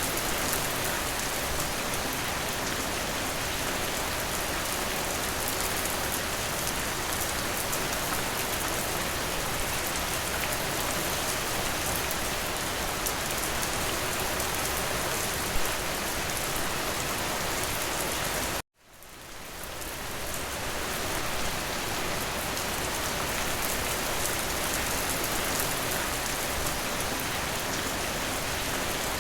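Steady, dense rain, an even hiss of many drops. About two-thirds of the way through it cuts out to silence for an instant and fades back in over a couple of seconds, a splice in the looped rain recording.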